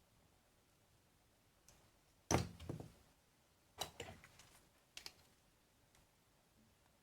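Hard objects knocked and clattered on a work surface: a sharp knock with a brief rattle about two seconds in, a cluster of clicks and clatter a second and a half later, then a smaller click.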